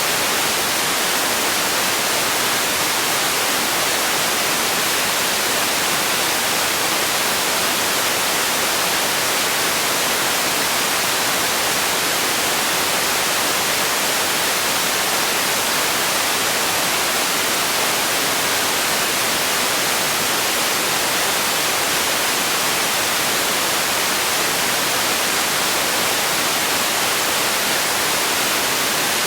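Steady white noise for sleep: an even, bright hiss with little bass, unchanging throughout.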